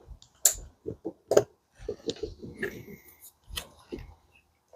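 Sharp plastic clicks and light clatter of spark plug wires being handled and routed under the fuel rail of an LS V8 engine. There are three louder snaps: one about half a second in, one just over a second in and one near the end, with softer rustling between them.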